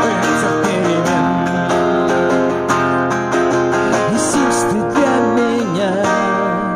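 Music: strummed acoustic guitar playing the wordless close of a worship song, with a gliding melody line over it in the middle, starting to fade near the end.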